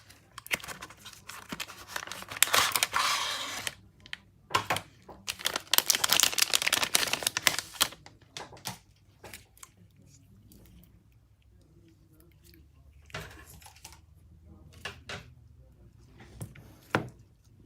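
Adhesive film being peeled, heard as two long tearing, crinkling pulls, followed by scattered light clicks and taps.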